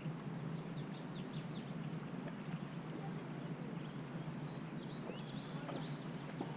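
Small birds chirping in quick, short notes, in two clusters, over a steady low background rush.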